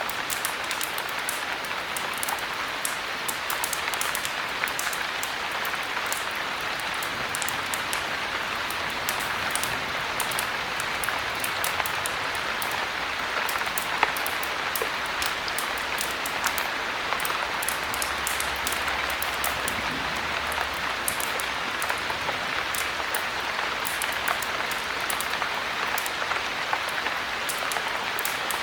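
Steady heavy rain mixed with the crackle of a wood fire: an even rushing hiss with many small sharp snaps throughout, one louder snap about halfway through.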